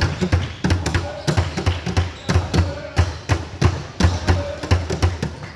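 Basketballs bouncing on a gym floor, about three or four thuds a second, with short sneaker squeaks in between.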